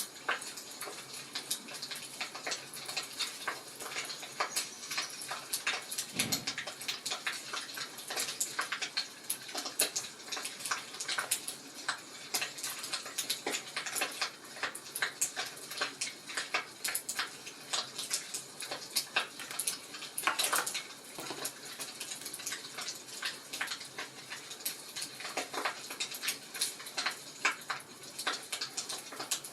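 Wood fire in a fireplace crackling, with a steady stream of irregular snaps and pops over a soft hiss. There is one soft low thump about six seconds in.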